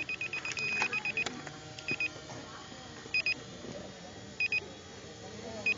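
Electronic beeping: a fast run of short, high beeps at about eight a second that stops a little over a second in, followed by double beeps repeating about every 1.3 seconds.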